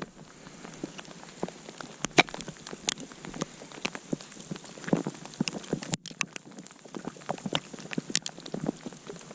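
Small campfire of kindling crackling as it starts to catch, with irregular sharp pops and snaps of varied loudness over a light hiss.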